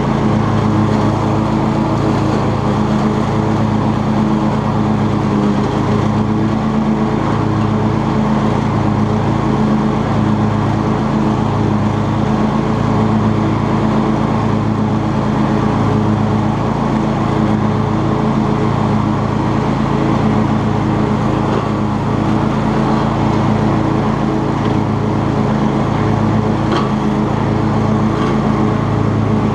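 Cub Cadet XT2 lawn tractor's engine running steadily while mowing, a loud even drone that holds the same pitch throughout.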